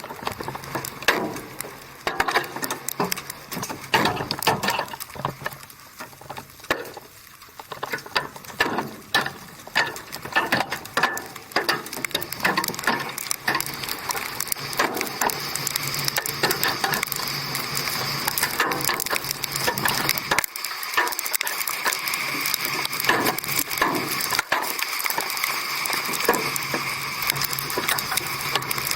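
Hailstones hitting a vehicle in a rapid, irregular clatter of sharp hits. The hits grow denser about halfway through, with a steady rushing noise of wind and rain building underneath.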